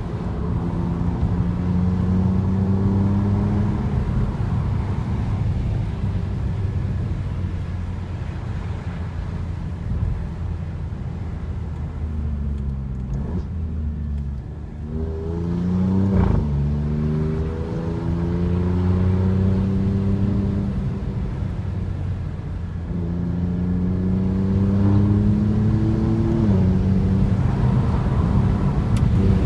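Alfa Romeo Giulia Quadrifoglio's twin-turbo V6 heard from inside the cabin, pulling hard with its pitch climbing under acceleration, then dropping quickly at gear changes and falling away when lifting off, several times over.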